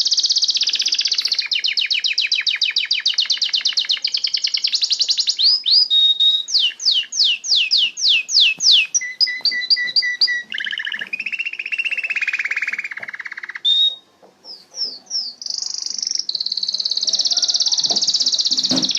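Domestic canary singing a long, loud song in high-pitched phrases: fast trills of many repeated notes, then rows of sweeping notes, each phrase changing to a new one every couple of seconds. The song breaks off briefly about fourteen seconds in, then resumes with a buzzy trill.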